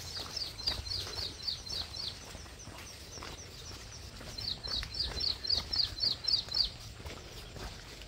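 A bird singing two runs of quick, repeated high chirps, about four a second: one run in the first two seconds, another from about four to nearly seven seconds in.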